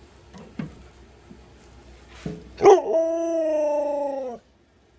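A husky gives one long drawn-out vocal call that jumps up sharply, then holds while sliding slowly down in pitch, and cuts off suddenly.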